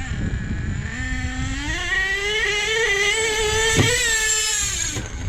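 Nitro RC monster truck's small two-stroke glow engine heard from a camera on the truck. It revs up from about a second in to a high, steady whine, holds there for about three seconds, then drops off suddenly near the end, over a low rumble from the ground, with one knock about four seconds in.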